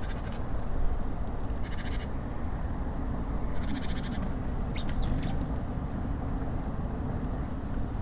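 Small songbirds at a feeder giving short bursts of high, rapid chattering calls and a couple of quick upward-sweeping chirps, four or five times, over a steady low background rumble.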